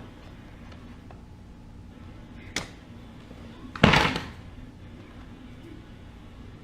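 Pneumatic 16-gauge finish nailer firing: a light sharp click about two and a half seconds in, then a loud sharp snap with a short tail about four seconds in. Not too loud.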